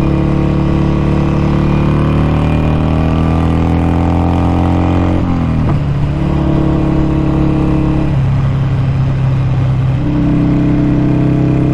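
Harley-Davidson Sportster 883's air-cooled V-twin engine heard while riding: the engine note rises steadily as it accelerates, drops suddenly about five seconds in as it shifts or rolls off, then runs at a steady pitch.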